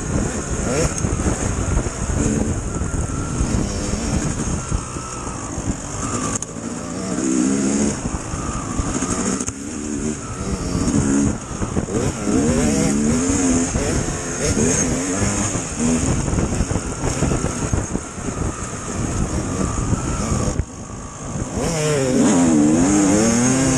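Dirt bike engine revving up and down, its pitch rising and falling repeatedly. It eases off briefly about three-quarters of the way through, then revs up hard again.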